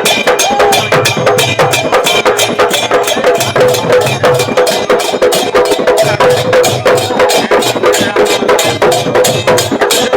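Sankirtan devotional music played on a khol drum and kartal hand cymbals in a fast, steady beat, with a held instrumental tone underneath.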